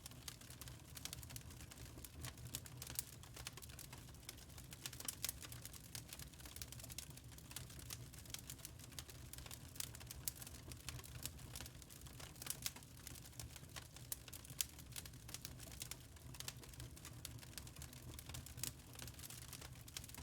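Wood fire crackling in a fireplace: many irregular small pops and snaps, some louder than others, over a steady low background of the burning fire.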